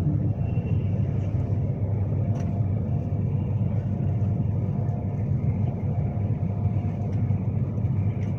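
Steady low rumble inside the passenger saloon of an Avanti West Coast Class 390 Pendolino electric train running along the line: wheel-on-rail and running noise.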